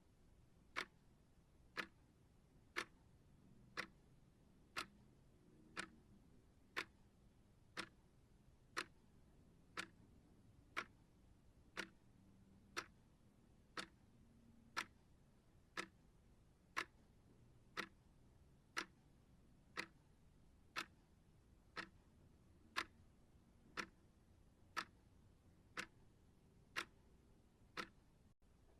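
Steady ticking, one short sharp tick each second, evenly paced like a clock.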